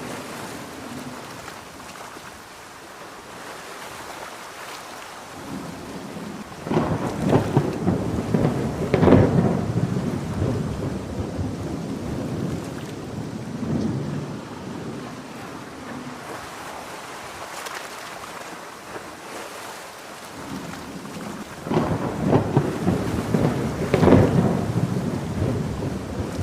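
Steady heavy rain with two loud, crackling rolls of thunder, one starting about six seconds in and another about twenty-two seconds in, each building over a few seconds before it fades.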